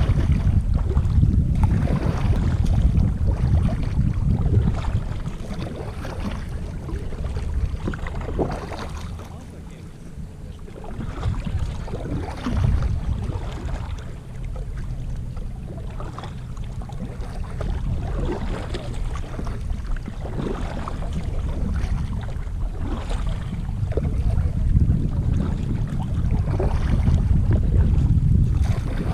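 Wind buffeting the microphone in a low rumble while kayaking, with irregular splashes of paddles in the water. The wind eases about ten seconds in and picks up again toward the end.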